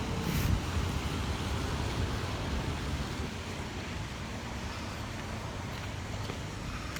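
City street traffic, with cars passing and wind rumbling on the microphone; slightly louder in the first second.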